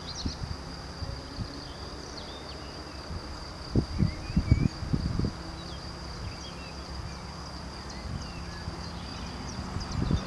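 Steady high-pitched insect drone with scattered bird chirps over a low steady hum. Wind buffets the microphone in gusts about four to five seconds in.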